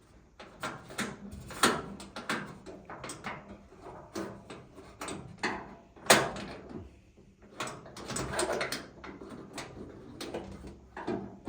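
Metal clicks, clunks and rattles from a square body Chevy truck door's latch mechanism and linkage rod being worked by hand, with two sharper knocks, one near the start and one about halfway through.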